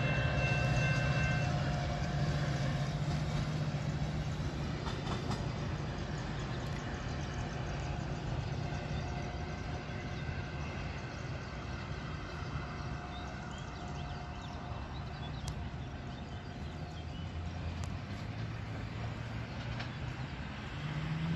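Metra diesel commuter train running through the station, a steady low rumble that slowly fades. A few high steady tones cut off about a second and a half in.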